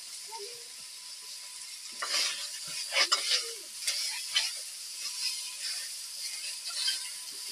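Chicken pieces sizzling in hot oil in an iron wok, with a steady high hiss throughout. A metal spoon scrapes and clinks against the pan as the pieces are stirred, mostly in a flurry about two to four and a half seconds in.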